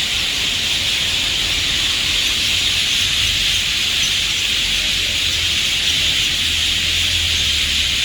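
A dense chorus of many birds in trees, blending into one continuous high-pitched din with no single song standing out, over a low rumble.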